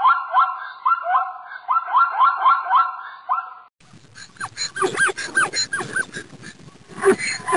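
Animal calls in two parts: first a rapid string of short rising calls, several a second. Just after the middle they stop abruptly, and a different set of gliding calls follows, growing busier near the end.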